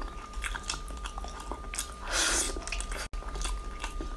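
Close-miked chewing and biting of braised pig trotters: wet, sticky mouth clicks throughout, with a louder noisy burst about two seconds in.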